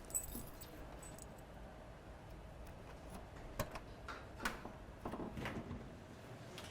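Faint room tone with a few soft clicks, a sharp one just after the start and two more in the middle, then a brief rustle about five seconds in.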